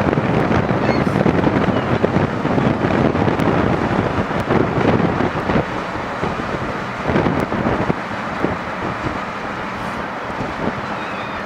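Strong wind buffeting the microphone: a loud, gusty rumble that eases a little after about eight seconds.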